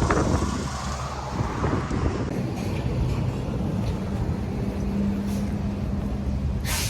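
Street traffic: vehicles running past with a steady low rumble and an engine hum in the middle, wind buffeting the microphone.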